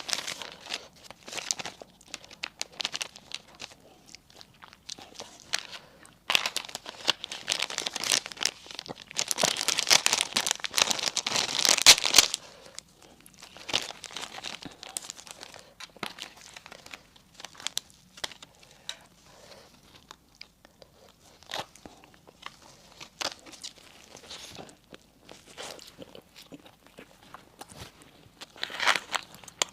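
Close-up eating sounds: a loud stretch of crinkling and tearing, like food wrapping being handled, from about six to twelve seconds in, then quieter crunching and chewing of crispy bread.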